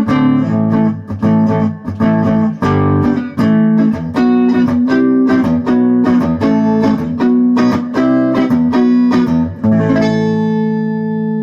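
Fender Squier Bullet electric guitar fitted with PRS pickups, played through a clean amp tone, strumming a quick run of chords. Near the end one chord is left to ring out.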